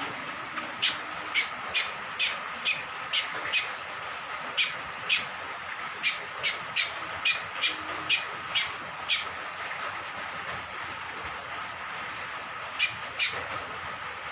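Cucak kombok (kecial kombok), a honeyeater, giving a series of short, sharp high calls about two a second. The calls pause for a few seconds and start again near the end, over a steady hiss of rain.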